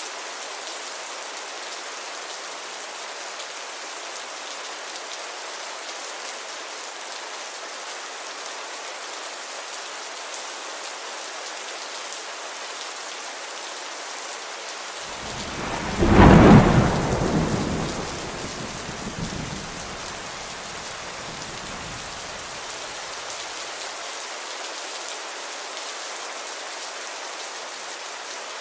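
Steady rainfall hissing, with a single roll of thunder about halfway through: a deep rumble that builds quickly, peaks with a loud crack-like swell, then fades out over several seconds.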